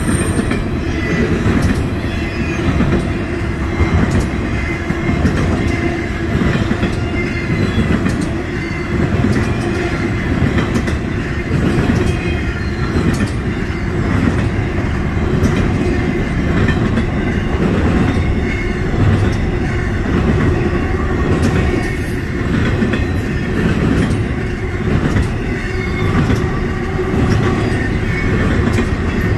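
Double-stack intermodal train's well cars rolling past: a steady rumble and rattle of steel wheels on rail with irregular clicks, and a faint high wheel squeal held throughout.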